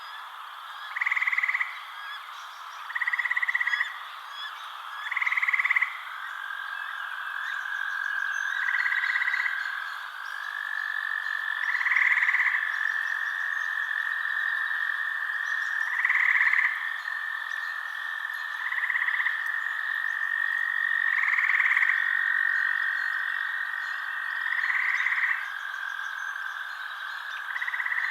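Frogs calling at night: short, repeated calls about every two seconds over a dense background chorus, with a steady high trill setting in about six seconds in.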